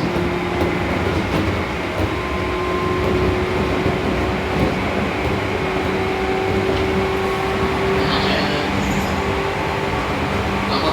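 Seibu New 2000 series electric train running at speed: rumble of wheels on rail with a steady whine from the traction motors.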